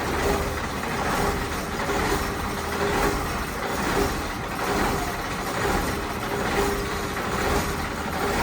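Truck engine running steadily, a continuous mechanical drone that swells about once a second.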